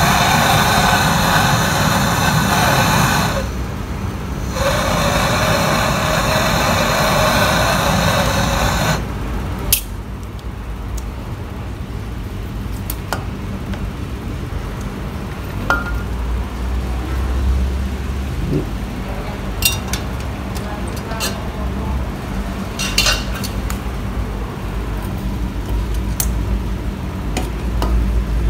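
A loud steady noise that cuts off about nine seconds in, followed by scattered light clinks and taps of metal against metal.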